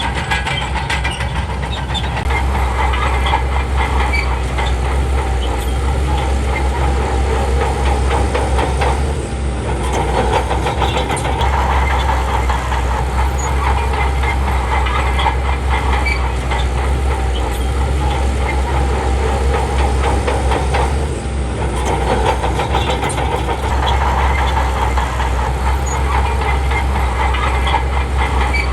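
Crawler bulldozer's diesel engine working under load with a continuous clatter of steel tracks. The engine eases briefly about a third of the way in and again about two-thirds through.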